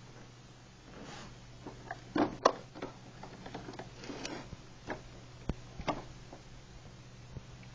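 iRobot Roomba 770 robot vacuum caught in a corner, giving a run of irregular clicks and knocks over a steady low hum; the loudest knocks come about two seconds in, with a few more near the end. The suction motor is not heard running.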